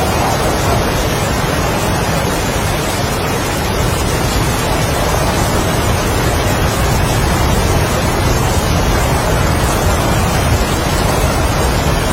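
Strong wind and heavy rain: a steady, dense rushing with a low rumble underneath.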